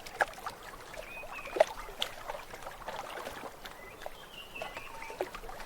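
Water splashing and trickling, with scattered sharp splashes and ticks; the loudest comes about one and a half seconds in. A few short, thin whistle-like calls sound over it.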